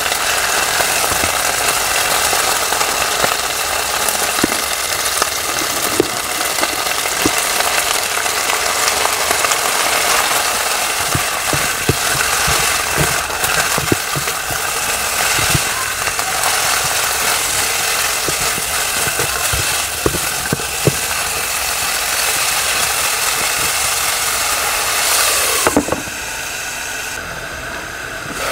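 Chicken and shredded ginger sizzling in a hot electric non-stick pan, with scattered taps and scrapes of a silicone spatula stirring. Near the end a glass lid goes on with a knock and the sizzle becomes quieter and duller.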